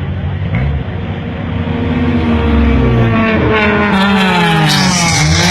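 Race car engine accelerating hard, getting louder about two seconds in and climbing in pitch, with a sudden drop in revs near the end as it shifts up a gear and starts climbing again.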